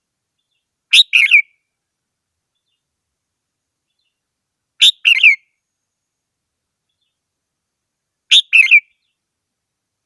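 Red-whiskered bulbul singing: three short phrases of two or three quick notes each, about half a second long and repeated roughly every three and a half seconds, with silence between them.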